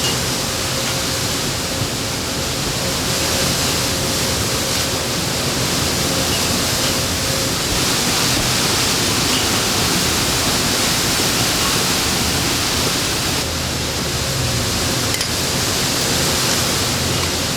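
Strong windstorm wind making a loud, steady rushing noise that swells a little over the middle stretch.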